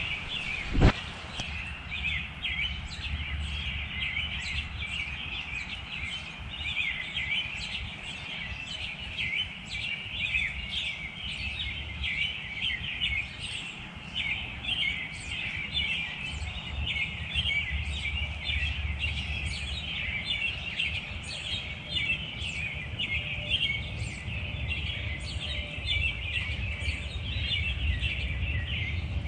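Many small birds chirping and calling at once, short high calls overlapping without a break, over a steady low rumble. A single sharp knock about a second in.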